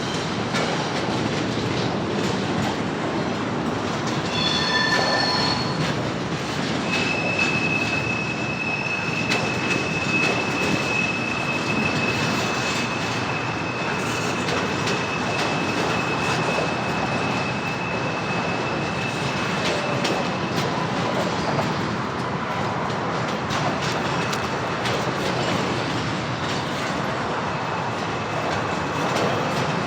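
CSX freight train cars rolling on the rails with a continuous rumble. A brief, high-pitched wheel squeal comes about four to five seconds in, and a long, steady one runs from about seven to twenty seconds in.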